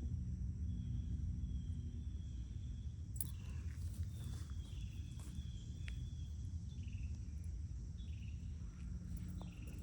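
Outdoor ambience: a steady high trill of insects such as crickets over a constant low rumble, with short chirps scattered through and a sharp click about three seconds in.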